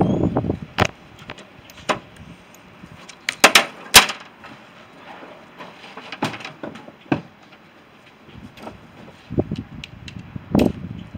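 Hand tools knocking and clanking against scrap boiler parts being taken apart: a string of sharp, separate knocks at irregular intervals, the loudest about four seconds in.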